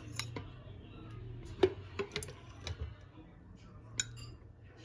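Dishes and utensils being handled: a scatter of separate clinks and knocks, the sharpest about a second and a half in, over a faint low hum.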